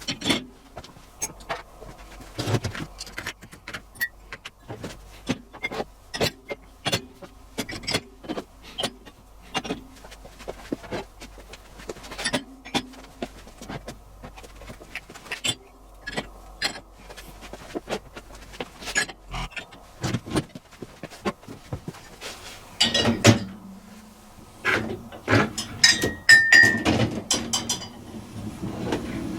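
Mugs and crockery being loaded into the racks of a Bosch dishwasher: irregular clinks and knocks of china against the racks and each other, busier and louder near the end.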